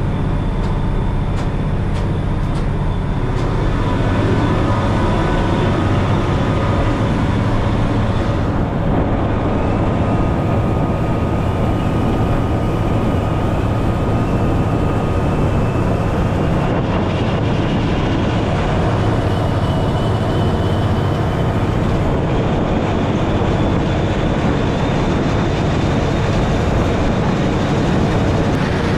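Steady drone of a prawn trawler's diesel engine running under way, with a faint high whine over the top.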